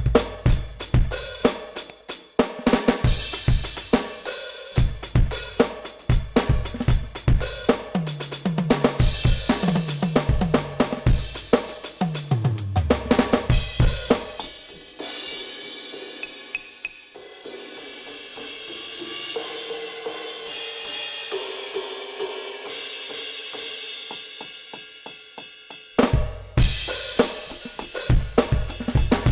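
NUX DM-8 electronic drum kit played through its sound module: a busy beat of kick, snare, hi-hat and cymbals, with a fill down the toms falling in pitch a third of the way in. In the middle the playing drops to a quieter stretch of ringing, pitched tones over light, quick hits, and the full kit comes back near the end.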